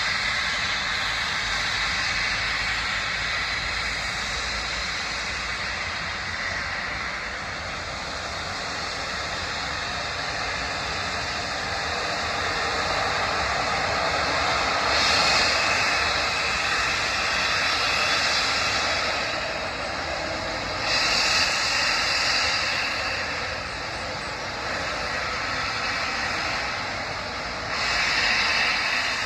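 A train running, a steady broad rumble and rush with three louder bursts of hiss, about halfway through, about two-thirds through and near the end.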